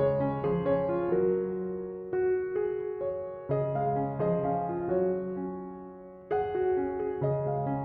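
Background piano music: a slow, gentle melody over sustained chords, with new chords struck about every two seconds.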